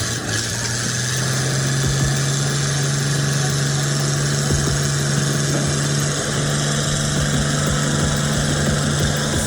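A heavy vehicle's engine running at a steady speed. Its low hum steps up slightly in pitch about a second in, then holds even.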